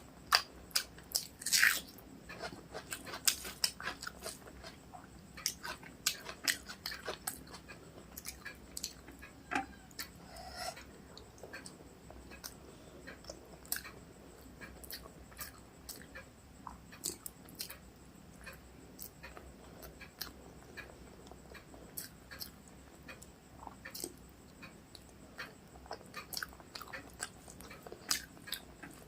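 Close-up chewing and wet mouth clicks of a person eating rice with chicken curry, many short sharp sounds coming irregularly, thicker in the first several seconds and sparser after.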